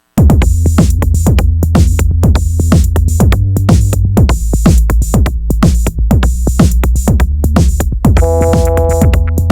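Eurorack modular synthesizer playing a sequenced acid line: Make Noise DPO and XPO oscillators through filters, with a drum-machine beat and a steady deep bass. Short plucked notes fall in pitch at about four a second over sharp ticks, and a held chord comes in about eight seconds in.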